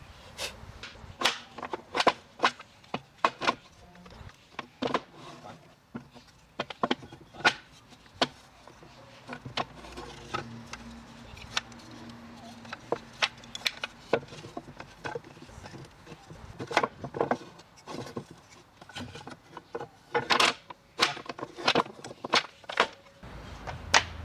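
Irregular sharp knocks and taps of wood against wood or tools on wood, some louder than others, coming every half second to a couple of seconds.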